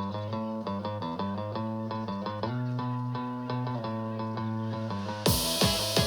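Electronic dance music played through a JBL Charge 6 portable Bluetooth speaker at 60% volume: a rhythmic plucked-string melody over bass, then about five seconds in the beat drops in, louder, with a regular kick drum and bright cymbal hiss.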